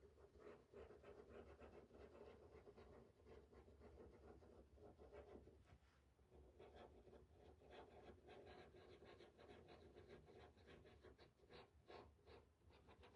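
Faint, rapid scratchy strokes of a small domed stencil brush rubbing paint onto a stencil in a light circular motion.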